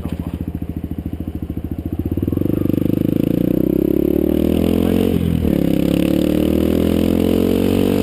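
Vehicle engine running steadily at low revs, then pulling away about two seconds in and revving up, with a brief drop in revs about five seconds in, as at an upshift, before rising again.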